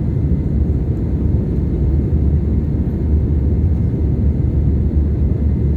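Steady low rumble of cabin noise inside an Airbus A320 with CFM56-5B engines, the aircraft moving under engine power. The level holds even throughout, with no rise or fall in pitch.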